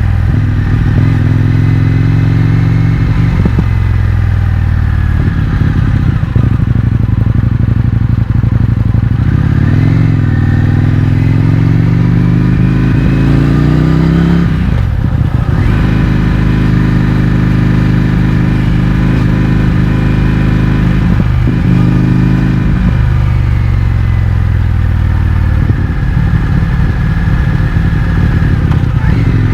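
Indian FTR 1200's V-twin engine running through an Akrapovic exhaust with the baffles removed, under way. The engine pitch climbs under throttle, drops sharply about halfway through, then holds fairly steady.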